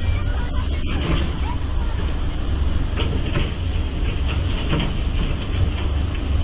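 Heavy excavator diesel engine running under load, with irregular cracks and crunches of a building's debris breaking apart.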